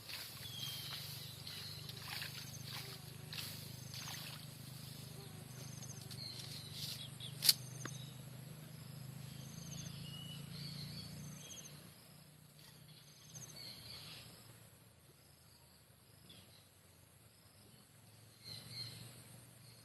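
Rice-field ambience: a steady high insect drone with short, repeated bird chirps, scattered rustling and light clicks, and one sharp click about seven and a half seconds in. A low hum fades out a little past halfway.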